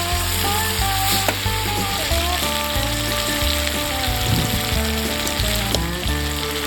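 Chicken sizzling steadily as it fries over a campfire, with background music over it.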